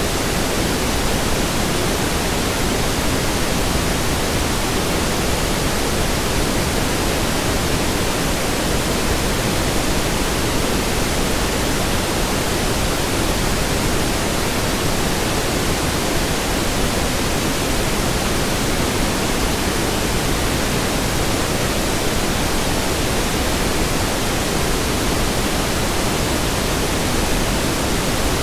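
Pink noise: a steady, even hiss across the whole range, weighted toward the low end, with no change in level.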